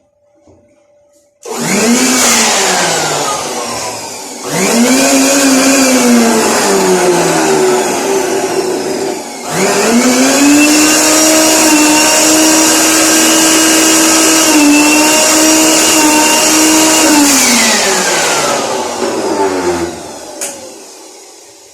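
Electric pressure washer motor started three times in a row, each time whining up in pitch. The first two runs sag away within a few seconds. The last holds a steady whine for about seven seconds before running down.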